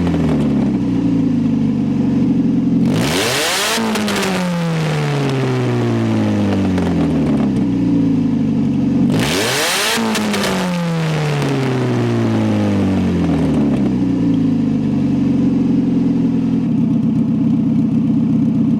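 A 1993 Saturn SW2's 1.9-litre twin-cam four-cylinder is running open-header, with only the exhaust manifold fitted and the exhaust coming straight out of the manifold outlet. The engine is revved sharply twice, about three seconds in and again about nine seconds in, and the pitch falls slowly after each rev. Near the end the engine is held at a steady speed.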